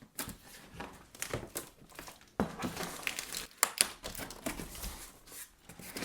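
Packing tape being peeled and torn off a cardboard box, with crinkling of the packaging: a run of irregular crackling rips that gets louder about two and a half seconds in.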